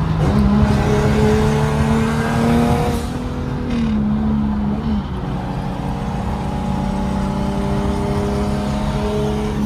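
Turbocharged Nissan 350Z's V6 engine pulling with a slowly rising pitch, dropping with a gear change about three seconds in and again near five seconds, then holding a steady drone.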